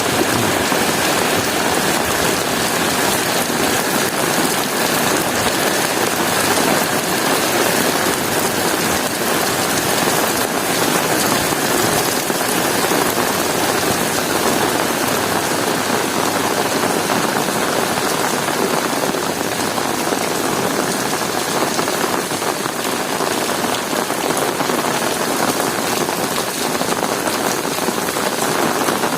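Heavy rain pouring and pattering on hard surfaces, a steady dense hiss without a break.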